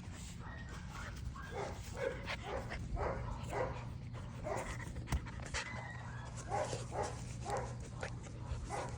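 Pit bull puppy making about a dozen short vocal sounds in an irregular string, over a steady low hum.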